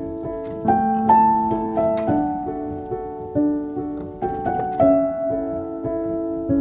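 Soft background piano music playing slow, gentle chords and a simple melody, with notes struck and left to ring.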